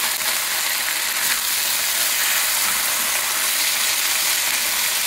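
Marinated pork, onions and carrots sizzling steadily in a cast iron wok over high heat as they are stir-fried.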